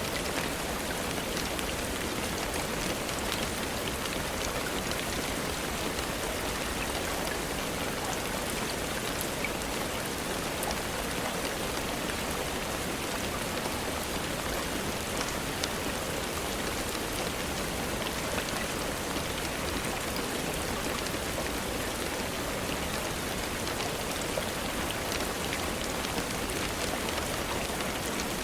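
Steady rainfall: an even, unbroken hiss sprinkled with faint scattered ticks.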